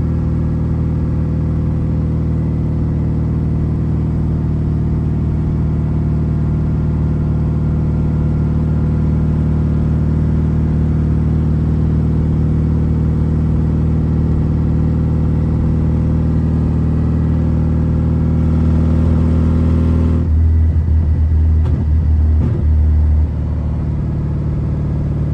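BMW E36's engine and exhaust heard from inside the cabin, running steadily while driving. About twenty seconds in, the sound turns deeper and rougher for about three seconds, then settles back to the steady drone.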